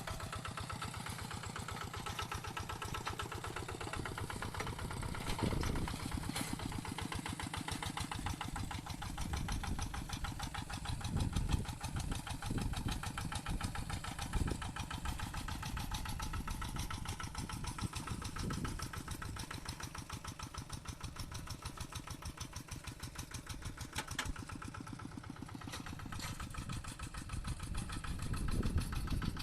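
A tractor engine running steadily with an even firing beat, swelling louder briefly a few times and again near the end.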